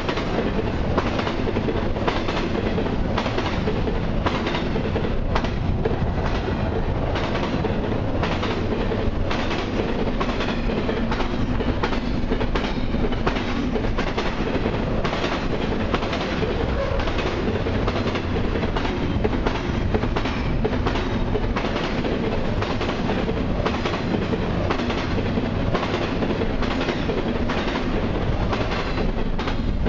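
Double-stack intermodal container well cars of a freight train passing close by: a steady rumble of steel wheels on the rails, with a continual clickety-clack as the wheels cross rail joints.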